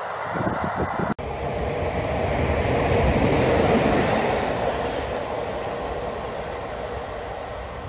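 A train recedes, then the sound breaks off abruptly about a second in. After that an electric locomotive hauling a train passes close by: its running noise swells to its loudest about three to four seconds in, then slowly fades, with a brief high hiss near the five-second mark.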